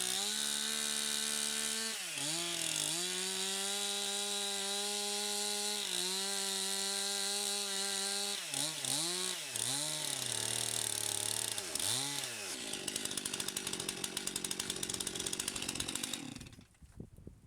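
Two-stroke chainsaw running at high revs. Its engine speed drops and picks up again briefly about two seconds in, and several times between about eight and twelve seconds in, before the saw winds down and stops near the end.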